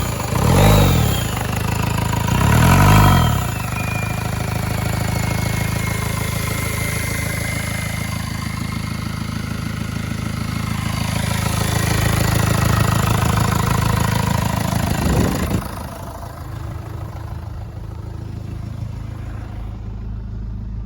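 Ford 2.0 TDCi diesel engine (code T8DA) running without an airbox, so its intake is heard plainly: revved briefly twice near the start, then idling steadily with a whine that falls away after the revs. The idle has no knocking or banging, which the seller takes as the sign of a sound engine. Near the end the sound drops suddenly and runs on quieter.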